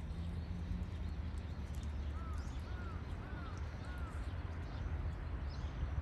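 Four short bird calls, each rising then falling in pitch, about half a second apart, from waterbirds on a lake, over a steady low rumble.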